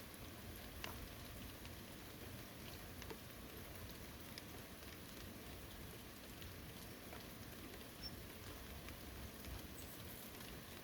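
Steady light rain falling in a forest, with scattered individual drops ticking on surfaces.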